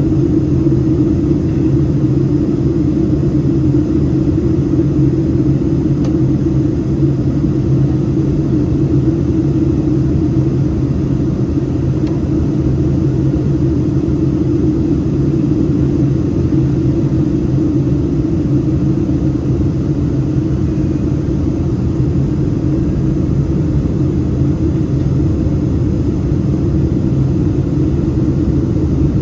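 Steady low drone of a Boeing 767-300ER's jet engines. The level and pitch hold even throughout, with no spool-up or change.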